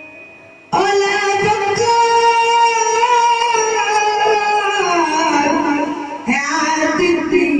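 Music with a voice singing: after a quiet first second a long held note comes in suddenly, slides down in pitch, breaks off briefly, then a new phrase starts.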